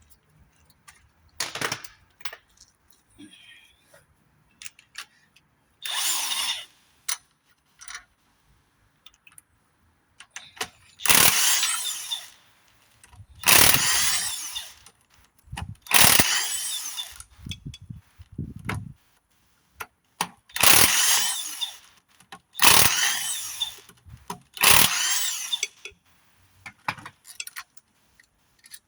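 Power tool spinning in short bursts of about a second, six times in the second half with a few shorter bursts before, as it undoes the bolts to open up a Ford Focus 1.0 EcoBoost engine. Light clicks and knocks of parts come in between.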